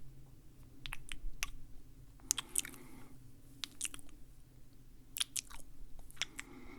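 Close-miked ASMR mouth sounds: wet clicks and smacks of lips and tongue, with a chewing-like quality, coming in small irregular clusters.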